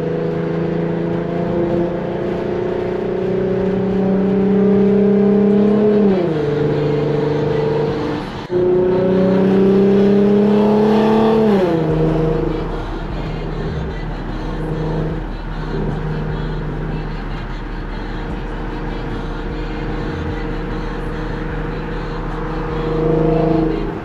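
Infiniti Q50's V6 through an aftermarket cat-back exhaust and resonated test pipes, accelerating: the engine note climbs steadily and drops at an upshift, climbs and drops again, then settles into a steady cruise with a short rise near the end.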